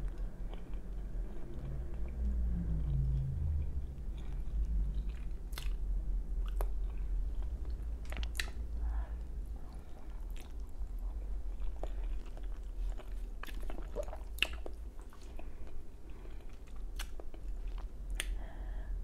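Close-miked chewing of fettuccine pasta, a person eating with wet mouth sounds and scattered sharp clicks and smacks of the lips.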